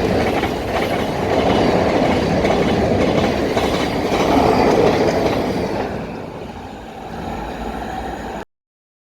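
Class 700 electric multiple unit train running through the station, a loud steady rumble of wheels on rail that swells and eases, then cuts off abruptly about eight and a half seconds in.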